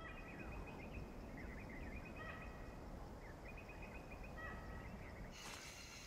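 Wild birds calling in short, repeated chirping trills over a low steady rumble of ambience. About five seconds in, a high insect buzz joins.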